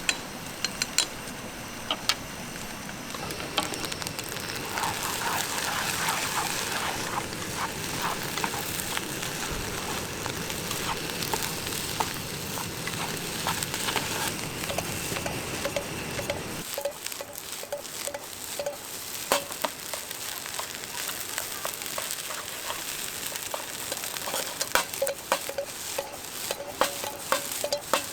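Food sizzling and spitting in a frying pan, a steady hiss with scattered sharp pops and clicks. About two-thirds of the way through the sound changes abruptly, losing its low rumble, while the popping goes on.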